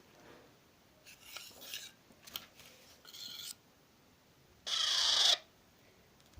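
Alexandrine parakeet chick giving harsh, raspy begging calls while being hand fed: three short calls, the last and loudest about five seconds in.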